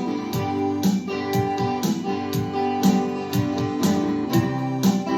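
Instrumental passage of a folk-rock song: strummed guitars over a steady drum beat of about two hits a second, with no singing.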